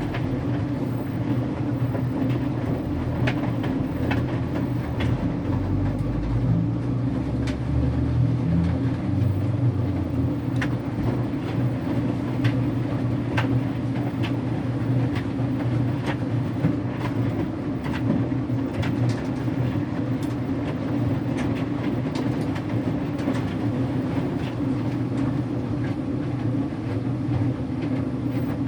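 Electrolux Wascator W355H front-loading washer running late in its wash cycle: a steady low hum with scattered light clicks. A deeper rumble swells in about five seconds in and fades a few seconds later.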